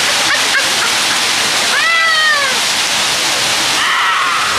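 Heavy rain pouring down steadily. About two seconds in, a high voice calls out once, rising then falling, and a second short voice sound comes near the end.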